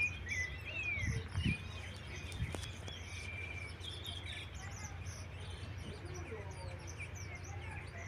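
Many small birds chirping and twittering in quick, short calls over a steady low rumble from the car.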